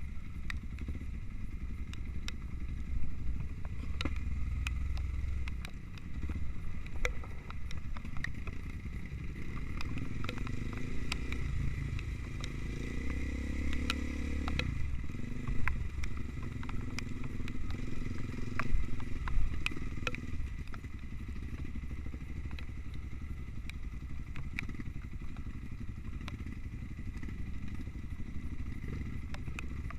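Trail motorcycle engine running as it is ridden, the revs rising and falling through the middle, with scattered clicks and knocks.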